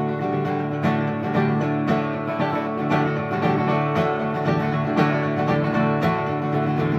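Acoustic bluegrass-style band playing an instrumental intro in D major, with banjo and guitar picking at a steady tempo.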